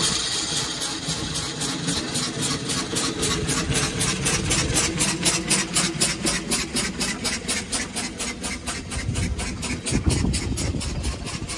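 The single-cylinder engine of a 1901 Curved Dash Oldsmobile running at a slow idle, chugging in an even beat of about five firings a second, with one louder beat about ten seconds in. It is running freshly after years of storage.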